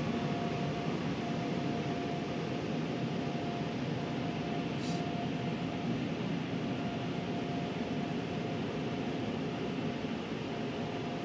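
Steady rush of blowing air with a faint steady hum, heard from inside a car.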